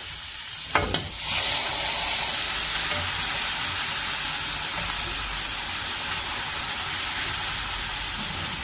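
Raw chicken livers hitting a hot oiled pan of onions, garlic-ginger paste and curry leaves: a short knock under a second in, then a steady sizzle that starts about a second in and holds, while a wooden spoon stirs them.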